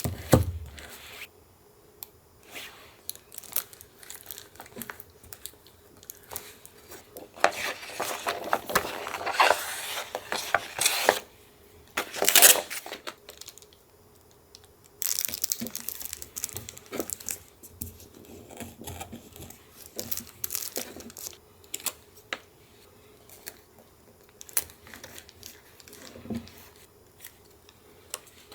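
Paper being handled for a collage: irregular stretches of paper tearing and crinkling, with a sharper rip about twelve seconds in and small taps and rustles between them.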